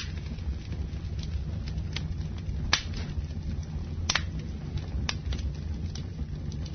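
Bonfire burning with a steady low rumble and irregular sharp crackles and pops of burning wood, the loudest a little under three seconds in and about four seconds in.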